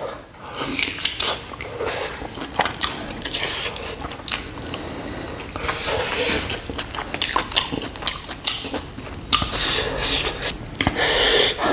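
Close-miked eating of spicy fried meat by hand: biting and chewing, with a run of irregular wet smacks and clicks from the mouth.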